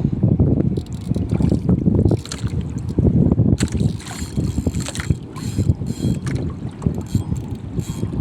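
Wind buffeting the microphone on a small fishing boat: a loud, gusty rumble, with scattered clicks and knocks in the middle of the stretch.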